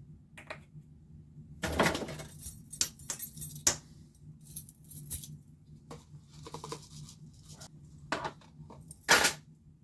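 Scattered clinks and knocks of metal tools being handled, with a longer rattle about two seconds in and a loud knock near the end.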